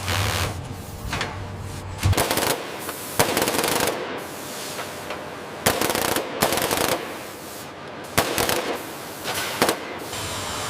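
Power tool rattling in about six short runs, each under a second long, over a steady background hum.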